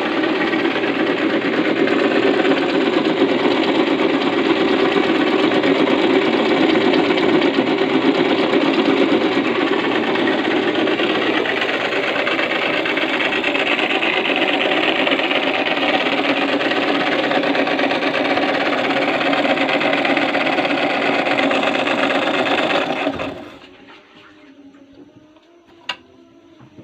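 Electric drill running steadily, driving a homemade rotary grater, then switched off about 23 seconds in, leaving a short click near the end.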